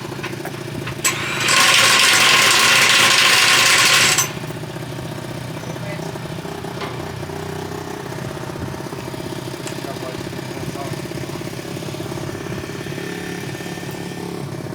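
An engine idling steadily throughout. About a second and a half in, after a click, a loud even hiss like escaping compressed air runs for nearly three seconds and cuts off suddenly.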